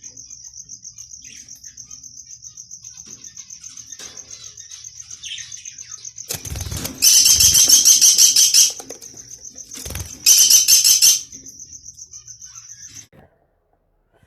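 Lovebirds chattering, with a steady rapid high-pitched trill throughout and two loud shrill bursts of calling of a second or two each, about seven and ten seconds in. The sound cuts off suddenly near the end.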